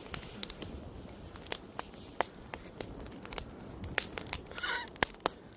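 Wood campfire crackling: irregular sharp pops and snaps over a low hiss, with a brief high wavering sound near the end.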